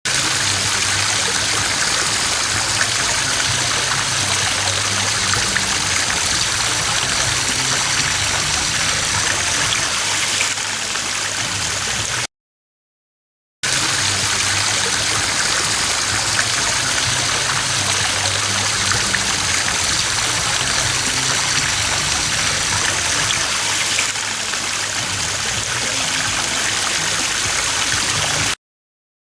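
Steady rushing of running water, broken by about a second of silence roughly twelve seconds in and stopping shortly before the end.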